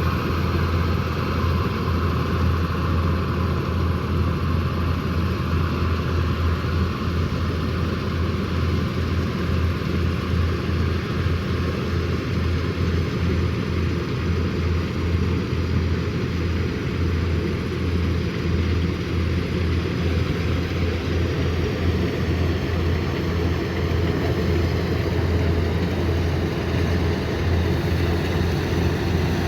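Kubota combine harvester's diesel engine running steadily under load, a constant low hum with machinery noise over it and no change in pace.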